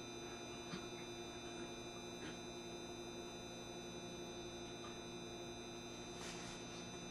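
Steady electrical hum inside a JR Shikoku 7200 series electric train standing at a station, a blend of several constant tones from its onboard equipment, with a few faint clicks.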